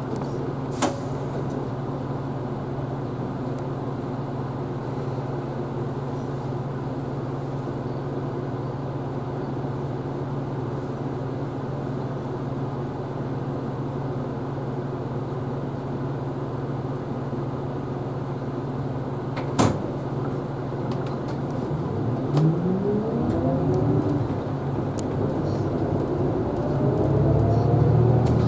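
Isuzu Erga Hybrid city bus heard from the front of the cabin: a steady low hum while it sits or creeps, with a sharp click at the start and again about two-thirds through. Near the end the drive pulls away twice, each time with a rising whine as the bus accelerates.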